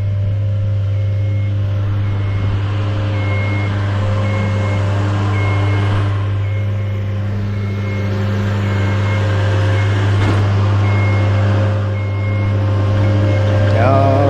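Aerial work lift lowering: its motor and hydraulic pump hum steadily while its motion alarm beeps over and over. Near the end the hum drops in pitch as the lift comes to a stop.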